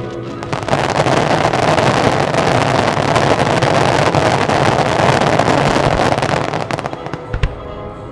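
A fireworks display crackling densely for about six seconds, a rapid shower of tiny pops from crackling effects, which then thins out. A single low thump comes near the end.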